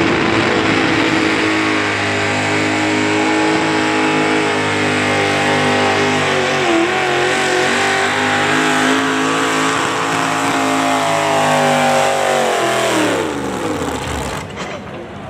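Competition pulling vehicle's engine at full throttle under load, holding high, steady revs for about thirteen seconds, then winding down as the revs drop near the end.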